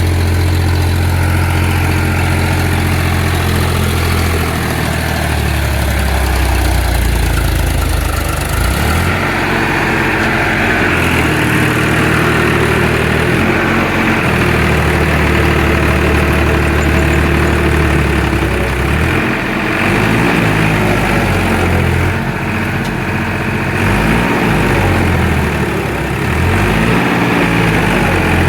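Tractor diesel engine running hard, with its engine speed stepping up and down every few seconds, as in a tractor tug-of-war pull.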